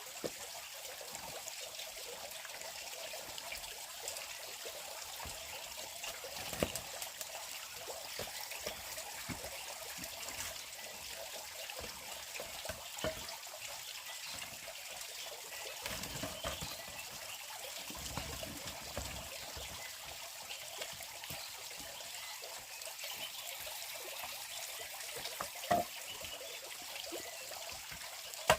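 Water trickling steadily, with a few light knocks.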